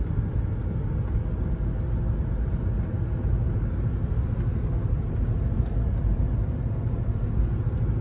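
2004 Audi S4's 4.2-litre V8 pulling the car along at low speed on a still-cold engine: a steady low rumble with road noise, no hard revving.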